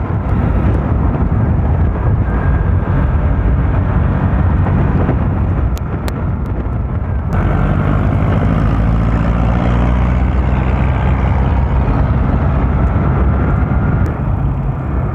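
Motorcycle riding at speed: wind rushing over the microphone with the Bajaj Rouser NS160's single-cylinder engine running underneath. About seven seconds in, the engine note comes through more clearly and climbs as the bike accelerates.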